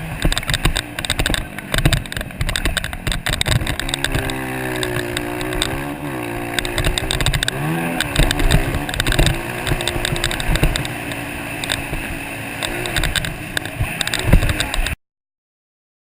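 Motocross motorcycle engines revving up and falling back as the bikes race, over many sharp crackles; the sound cuts off suddenly near the end.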